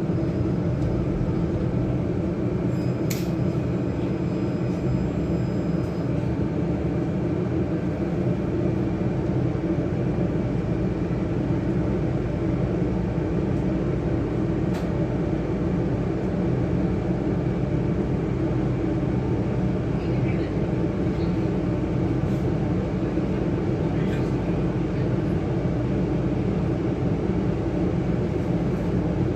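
Tatra KT3R tram running, a steady hum and rumble with a few faint clicks.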